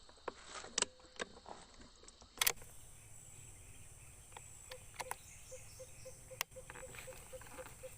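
Several sharp clicks, the loudest about two and a half seconds in. They are followed by a faint, even ticking call, about four ticks a second, against a background of insects.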